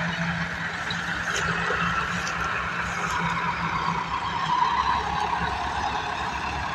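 Massey Ferguson 385 tractor's diesel engine running steadily, with a constant low drone and a noisy upper tone that drifts slightly lower.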